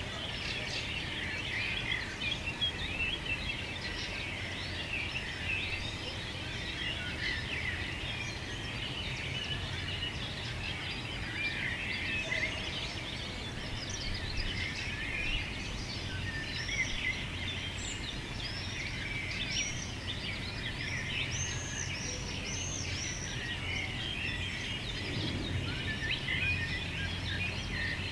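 Many small birds singing and chirping at once, a dense chorus of short, overlapping high calls and quick rising and falling whistles, over a steady low rumble.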